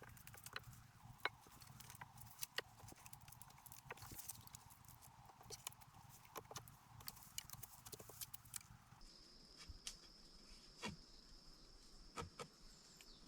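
Irregular sharp knocks and clicks of bamboo being handled and worked, a few loud single cracks among them. About nine seconds in the knocks thin out and a steady high whine joins.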